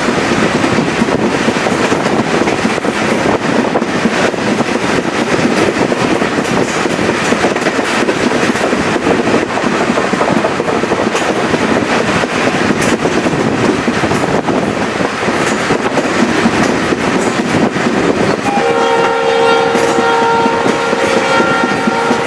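Chepe passenger train running on the rails with a steady rumble and clickety-clack of wheels over the track. Near the end the diesel locomotive's multi-tone air horn sounds one long blast.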